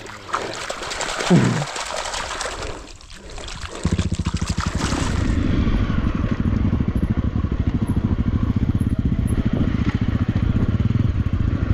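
Honda CRF250L single-cylinder motorcycle engine running with a steady, even pulse from about four seconds in; before that, a rough rushing noise.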